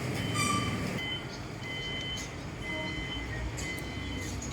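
Repeating electronic warning beeps, steady high tones switching on and off about once a second, over the low rumble of an idling diesel train.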